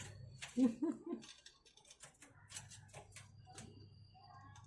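Budgies in a cage giving short, scattered chirps and a thin high whistle in the second half, with a brief low-pitched sound, the loudest moment, about a second in.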